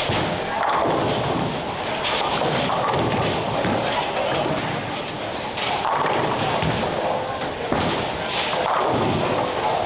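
Bowling alley din: repeated thuds and clatter of bowling balls and pins over a constant wash of indistinct voices.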